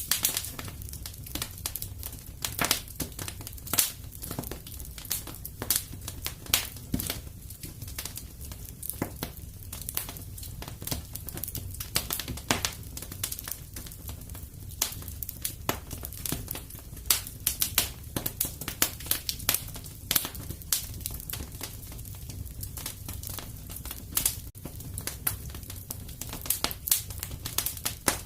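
Wood fire crackling in a fireplace: dense irregular snaps and sharper pops over a low steady rumble.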